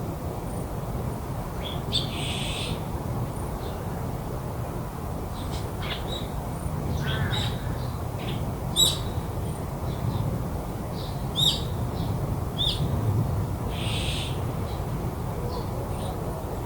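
Several wild birds calling in a garden. Short sharp chirps come around the middle and a few harsh, scratchy calls come early and near the end. Under them runs a steady low background rumble.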